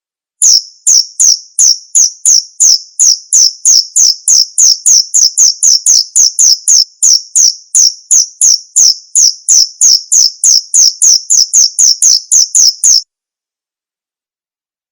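Male cricket chirping: a loud, even series of short, high-pitched chirps, about three a second, that starts about half a second in and stops abruptly near the end.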